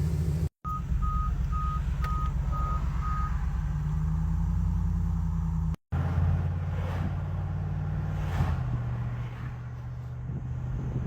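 A car's engine and road noise as a steady low rumble, heard from inside the cabin. About a second in comes a string of six evenly spaced electronic beeps at one pitch, a car's warning beeps, lasting about two seconds.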